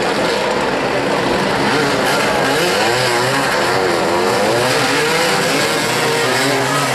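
Several motoball motorcycles' engines revving up and down together, their pitch rising and falling continuously as the riders accelerate and slow.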